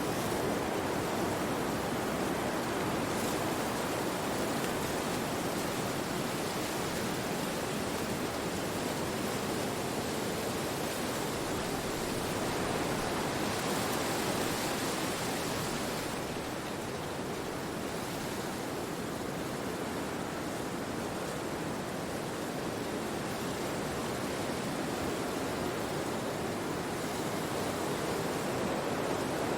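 Wind blowing through forest trees: a steady rushing through the leaves that swells slightly about halfway through.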